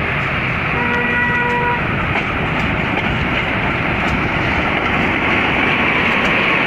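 Passenger train hauled by a CC 204 diesel-electric locomotive running by, a loud steady rumble of wheels and running gear. A brief horn tone sounds for about a second near the start.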